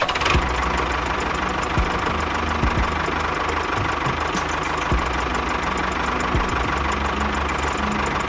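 A small motor running steadily with a steady whine, with scattered low knocks.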